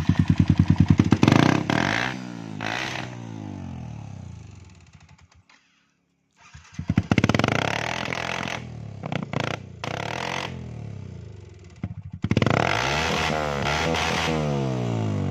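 Yamaha R15's single-cylinder engine through an aftermarket Akrapovic exhaust, revved hard three times with the revs falling away after each, and a few sharp pops from the exhaust on the overrun. The sound cuts out completely for about a second near the middle.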